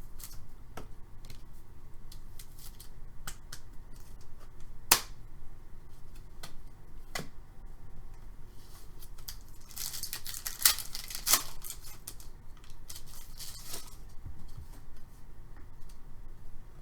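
Hockey trading cards being handled and a card pack being opened: scattered sharp clicks and snaps of card stock, with a stretch of tearing and crinkling wrapper about ten seconds in.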